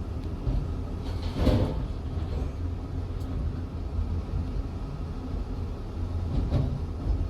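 Caterpillar 345 hydraulic excavator's diesel engine running with a steady low rumble. A louder noisy swell comes about one and a half seconds in, and a smaller one near the end.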